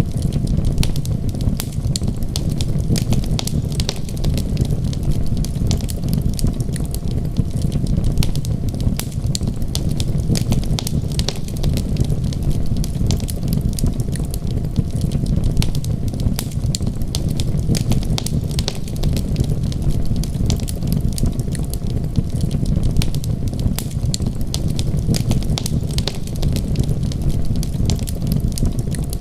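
Wood fire crackling with a constant scatter of small pops over a steady low rumble.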